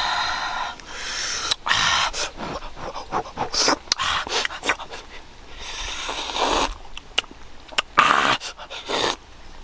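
A person breathing hard through the mouth: several hissing breaths with sharp mouth clicks and smacks between them.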